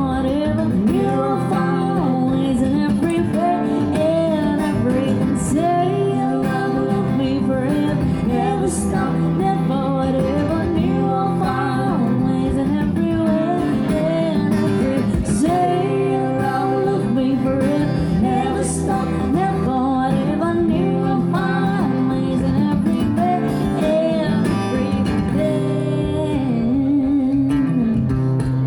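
Acoustic guitar strummed and plucked, accompanying a singer in a live acoustic duo performance.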